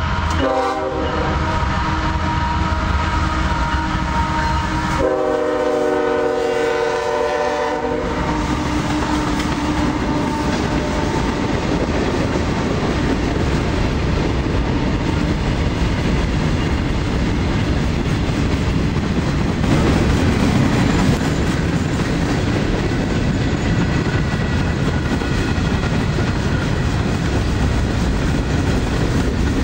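Freight locomotive's multi-note horn sounding a short blast, then a longer blast a few seconds later, as a freight train rolls by with steady steel-wheel rumble and clatter of cars over the rail joints.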